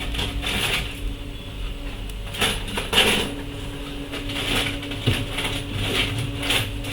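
Irregular clicks, taps and scrapes of small tools and parts being handled on an electronics repair bench, over a steady electrical hum.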